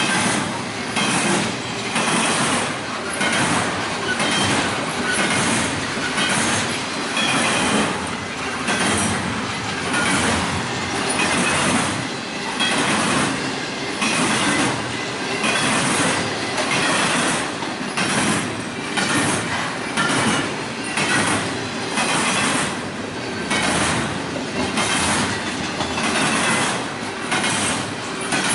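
Train cars rolling past at close range, their wheels clacking over the rail joints in a steady rhythm of about one beat a second.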